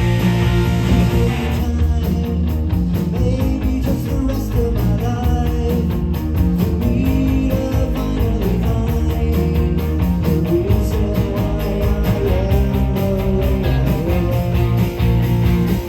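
Guitar-led rock music playing loud, with a steady beat.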